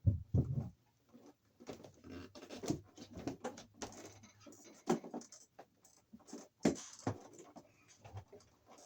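Spliced electrical wires with wire nuts being folded and pushed up into a junction box: irregular clicks, scrapes and rustles of the wires and connectors being handled.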